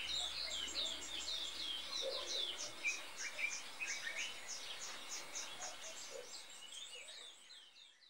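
Wild birds chirping and calling, a busy run of short high notes at about four a second mixed with quick descending notes, fading out near the end.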